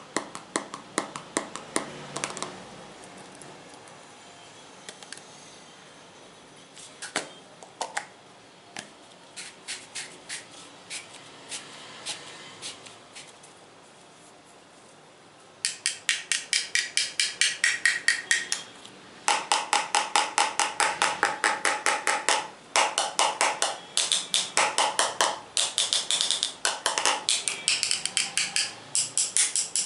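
Tapping on hard objects for ASMR. It starts with a quick run of taps, turns sparse and softer through the middle, then from about halfway becomes fast, loud runs of taps, each with a short ringing tone like struck metal or glass.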